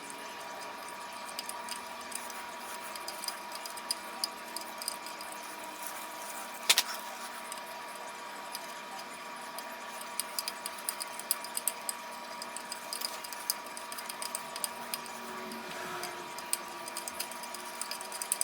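Quiet scraping and small clicks of a hand file worked over bare copper, thickest in the second half, over a faint steady whine; one sharp click about seven seconds in.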